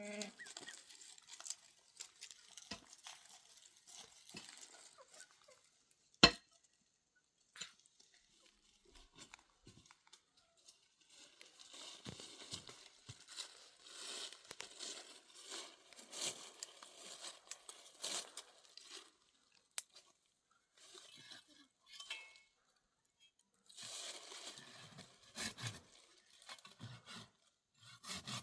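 Rustling, crinkling and crunching of things being handled, with scattered light clicks. One sharp knock about six seconds in is the loudest sound.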